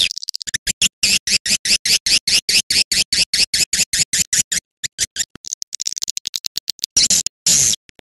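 Swiftlet twittering on a lure-call recording, the kind played to draw swiftlets into a nesting house. It is a fast run of sharp, high chirps at about eight a second, which turns to a faint rapid ticking midway. Two longer buzzy bursts come near the end.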